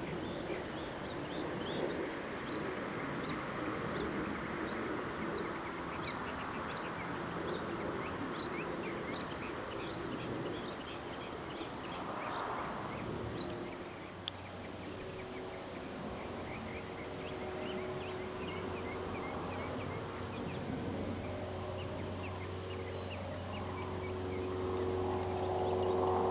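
Short high chirping calls from small animals, repeated a few times a second throughout. A steady low hum joins about halfway through.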